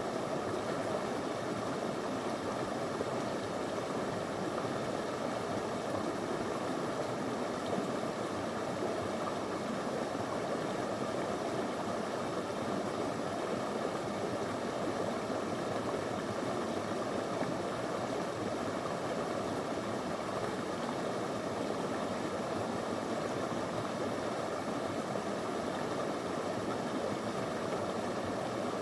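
Small river flowing over stones, a steady even rush of water.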